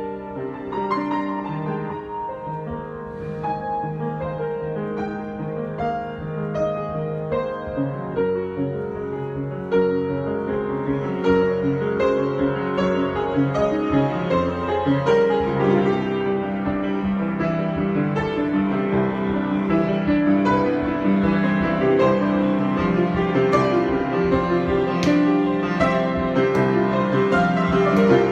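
Solo piano improvisation: sustained chords under a wandering melody, growing fuller and a little louder from about ten seconds in.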